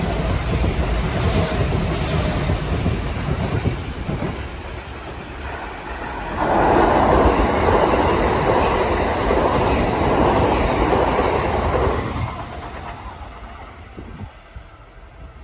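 Kintetsu 80000 series 'Hinotori' six-car electric limited express running past, a steady rail rumble. It is loudest from about six to twelve seconds in as the cars go by, then fades away as the train recedes.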